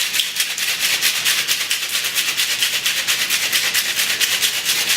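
Ice rattling hard inside a cocktail shaker being shaken vigorously, in a rapid, even rhythm.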